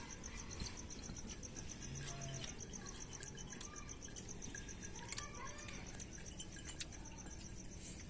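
A cricket chirping steadily in a high-pitched, evenly pulsed trill, with a few faint clicks over a low background hum.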